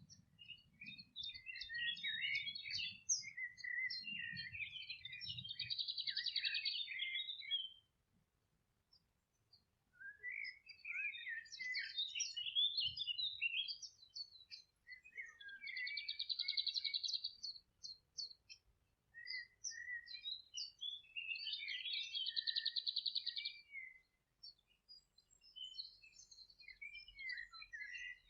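Songbirds singing: a chorus of chirps and twittering phrases, with a fast buzzy trill repeating every few seconds and a brief pause about a third of the way in.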